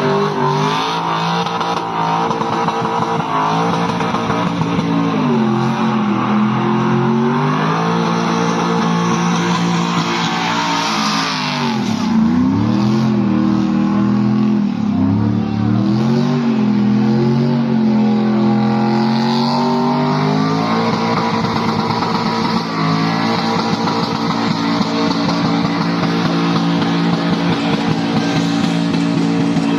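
LS V8 engine in a swapped van running hard, its revs rising and falling over several seconds at a time. The pitch drops low in the middle, then climbs and holds steady at high revs for the last part.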